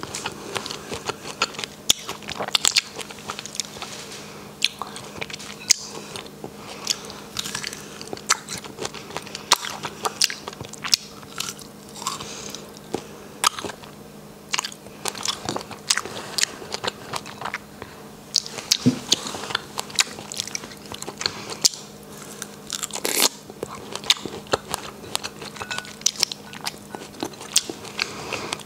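Close-up chewing of a chocolate-dipped strawberry coated in coconut shreds, with many irregular wet mouth clicks and smacks as it is bitten and chewed.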